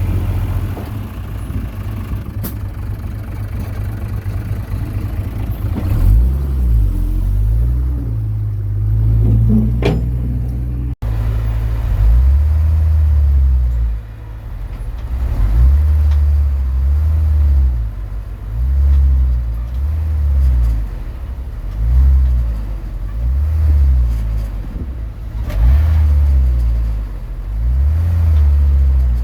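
Komatsu D21P bulldozer's diesel engine running, steady for the first few seconds, then its speed rising and falling over and over, about once every two seconds, as the dozer works.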